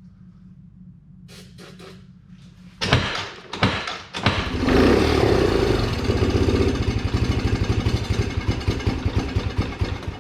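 Can-Am engine catching on ether starting fluid: a few knocks and sputters about three seconds in, then it runs roughly with rapid pulsing for about six seconds and cuts out abruptly. The owner takes it for bad fuel, since the engine will only run on ether.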